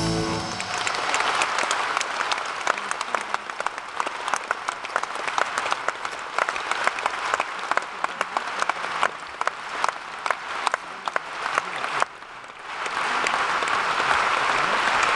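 Audience applauding after a song ends, dense hand-clapping that dips briefly about twelve seconds in and then swells again.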